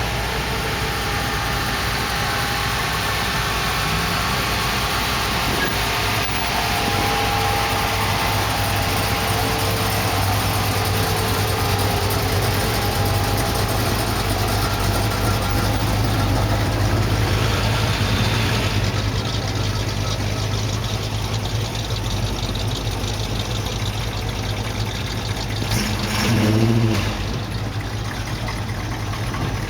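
Car engines idling and running at low speed in a slow line of cars, a steady low rumble, with one engine swelling louder briefly near the end.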